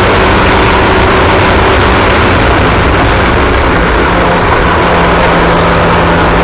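Race car engines running loud and steady, their pitch shifting slightly about four seconds in.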